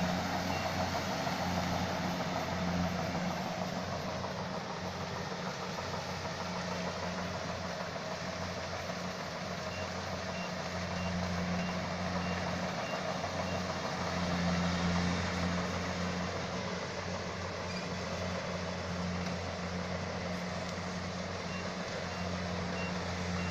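Combine harvester's diesel engine running steadily under load, a constant low hum with mechanical clatter over it. A faint series of short high beeps comes about halfway through and again briefly near the end.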